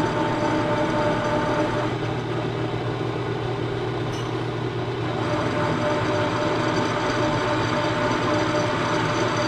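Milling machine running with an end mill facing the front edge of a cast engine frame: a steady machine hum with a few steady whining tones that drop back for a few seconds in the middle and then return.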